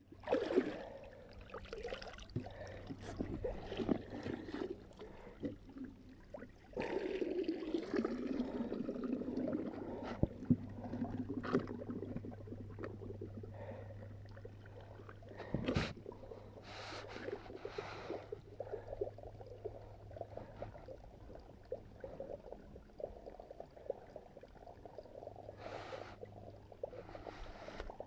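Water trickling and splashing as a magnet and its rope are worked in the river, with scattered small knocks and one sharper knock a little past halfway.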